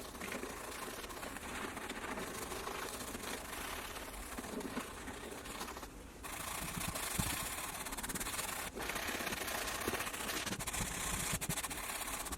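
Steady rubbing and scrubbing noise of detailing work on a car. It breaks off briefly about six seconds in, then comes back louder and hissier.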